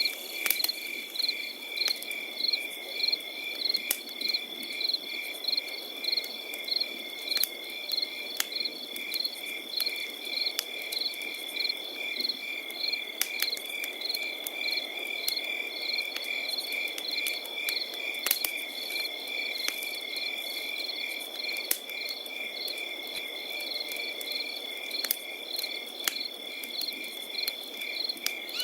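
Crickets chirping in a steady, even pulse over a continuous high insect trill, with scattered sharp crackles from a campfire.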